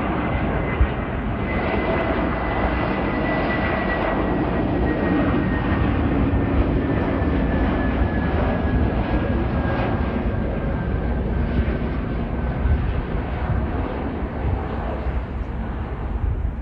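Jet airliner's engines running loud as it passes, a steady rumble with a whine that slowly falls in pitch.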